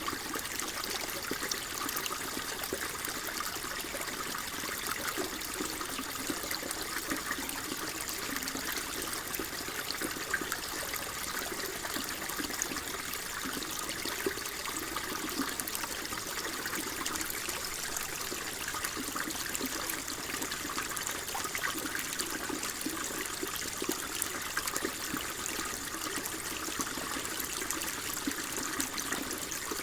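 Shallow water flowing and trickling over stones in a steady, even babble, with small splashes throughout.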